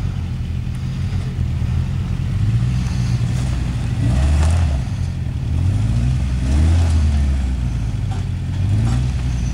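Toyota 4x4's engine pulling under load on a rocky hill climb, revving up in several short bursts and easing back in between.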